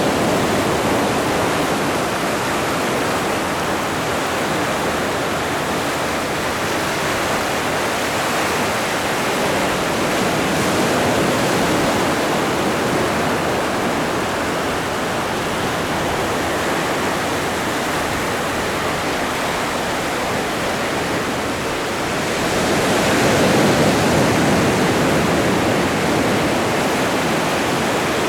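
Atlantic ocean waves washing on the shore: a continuous rush of surf that swells and eases slowly, with one louder surge late on.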